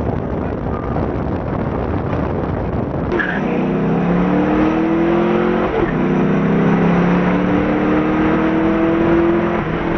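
Car engine at full throttle under hard acceleration. Its pitch climbs steadily, dips briefly about six seconds in at a gear change, then climbs again before easing off just before the end.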